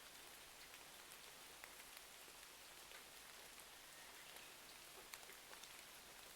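Faint ambience of steady rain mixed with a crackling fireplace: an even hiss with small pops and crackles scattered through it.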